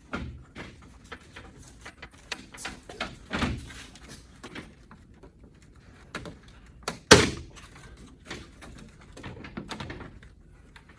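Plastic trim clips clicking and popping as front-end trim is worked free by hand, with scattered knocks of plastic parts. One sharp, loud knock about seven seconds in.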